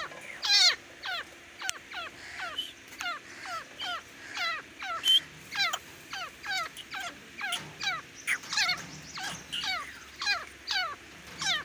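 Grey francolin calling: a continuous run of short, shrill repeated notes, about three a second, some louder than others.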